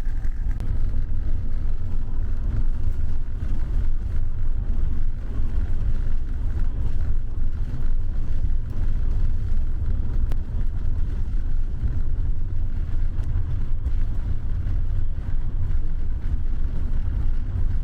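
Steady low rumble of a moving vehicle heard from on board, unbroken until it cuts off abruptly at the end.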